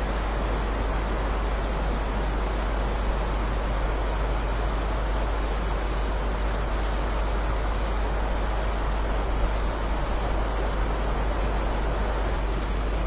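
Heavy rain falling steadily, an even, unbroken hiss with a deep low rumble beneath it.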